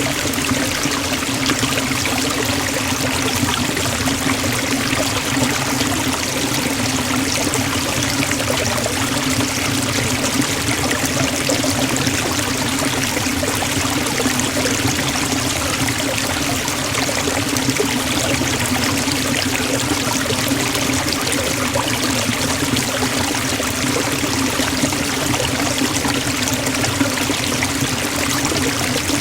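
Waterfall splashing down: a steady rush of falling water, unbroken throughout.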